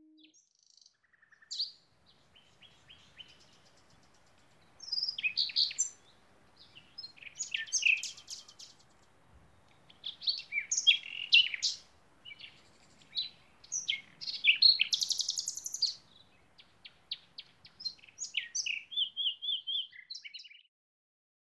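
Small birds chirping and singing in short bursts of song, with a faint background hiss; the sound cuts off suddenly near the end.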